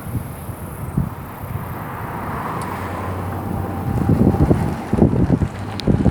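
Wind gusting against the microphone over the low, steady rumble of a truck, the buffeting growing stronger from about four seconds in.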